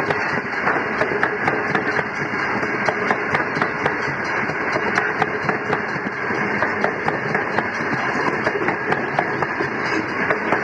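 Loaded grain hopper wagons of a freight train rolling past close by: a steady, loud rolling noise of steel wheels on rail, with many sharp clicks and clanks from the wheels and couplings.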